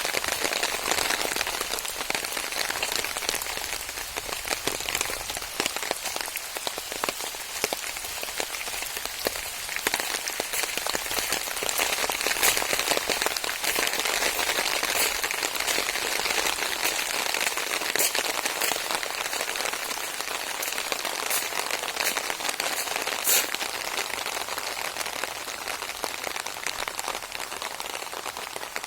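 Steady rain falling, a dense patter of drops with a few louder single drop hits standing out now and then.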